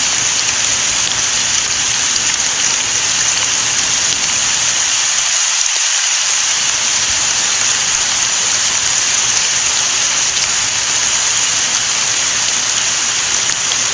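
Steady rain falling: an even, unbroken hiss of drops, brightest in its high register.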